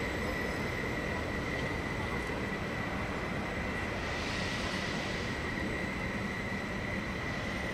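Bayerische Regiobahn (BRB) regional train moving through the station with a steady high-pitched wheel squeal over the rumble of the running gear. A brief hiss swells about four seconds in.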